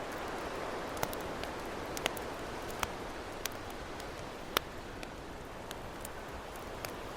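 Campfire crackling, with sharp irregular pops about once a second, over a steady wash of ocean waves.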